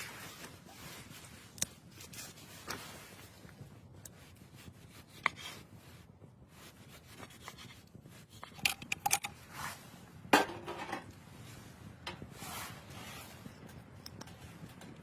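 Handling sounds: rubbing and rustling with scattered light knocks and clinks, busiest and loudest about eight to eleven seconds in.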